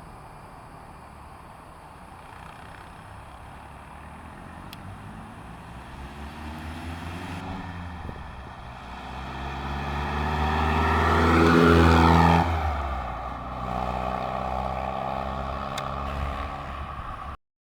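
1965 Triumph TR4's 2.2-litre four-cylinder engine as the car drives past. It grows louder for about twelve seconds, then the pitch drops and it falls away. It cuts off suddenly just before the end.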